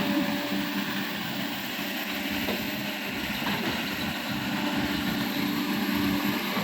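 Excavator's diesel engine running steadily with an even hum, over a steady rushing noise.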